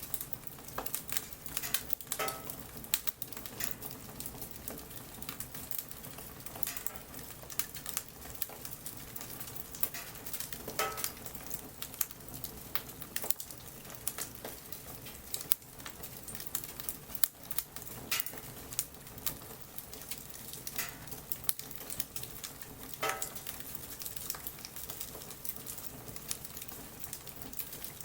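Wood campfire burning in light rain: a dense, irregular crackle of small snaps and pops, with a few louder pops every several seconds and a patter of raindrops.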